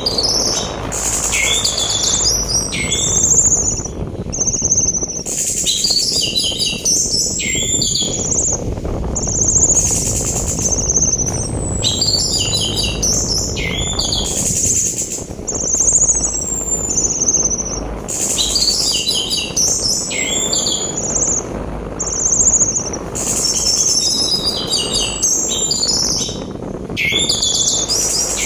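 Orange-headed thrush (anis merah) singing phrase after phrase of high whistles, downward-sliding notes and quick rattling figures, a mix of the rattling, sharp and clear ringing song types used to stimulate caged birds. A steady rush of sea wind runs underneath.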